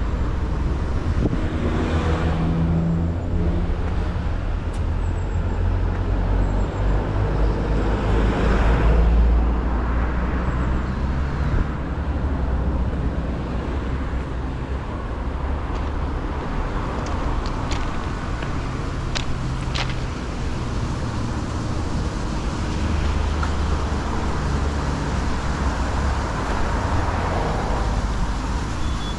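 Steady road traffic noise with a low rumble, and one vehicle passing louder about eight or nine seconds in. A few faint clicks come later on.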